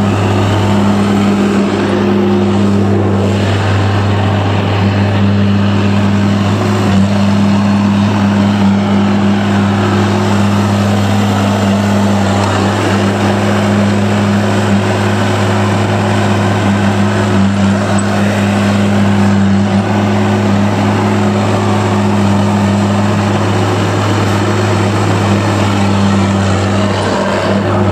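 Motor vehicle driving at a steady speed: a constant low engine drone with road noise, unchanging in pitch and level.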